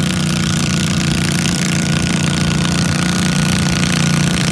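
Garden tractor's small engine running steadily at an even pitch.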